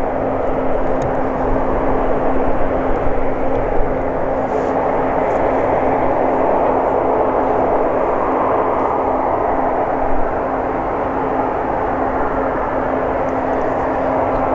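Combine harvester running steadily in the field: an even mechanical drone with a constant low hum.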